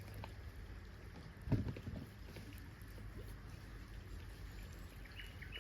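Low wind rumble on the microphone with scattered light clicks and one dull thump about a second and a half in.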